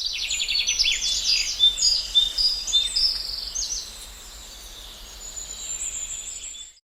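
Several birds chirping and singing over one another, busiest in the first three seconds and then thinning out, with the sound cutting off suddenly near the end.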